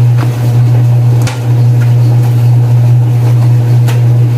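A loud, steady low hum, with a few light clicks about a quarter-second, a second and a quarter, and four seconds in.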